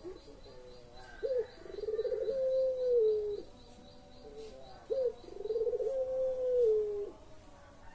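Puter pelung dove, a domestic Barbary (ringneck) dove, cooing: twice a short rising note followed by a long, low coo that rolls at first, holds steady and drops away at its end.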